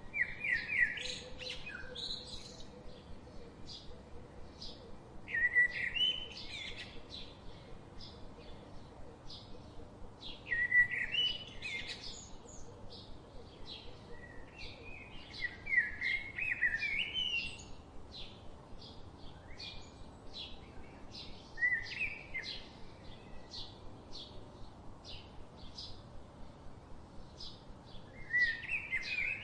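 Birdsong: a bird singing short warbled phrases about every five seconds, with many quick chirps between them.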